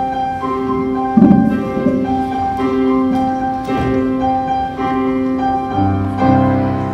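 Keyboard music playing held chords that change every second or so, with a lower chord coming in near the end. A thump is heard about a second in.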